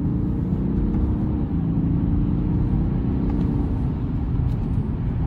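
Inside the cabin of a BMW 740d: its 3.0-litre straight-six diesel pulls hard as the car accelerates, a steady engine note over tyre and road rumble.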